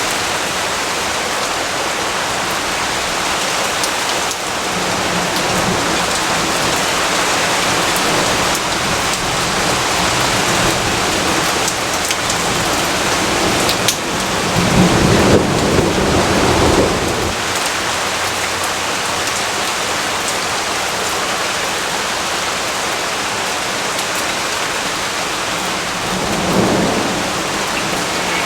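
Steady heavy rain with a low rumble of thunder about halfway through lasting a few seconds, and a fainter rumble near the end.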